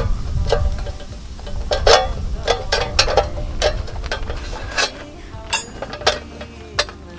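Irregular clinks and knocks of camp cookware being handled and stirred, about a dozen sharp strikes.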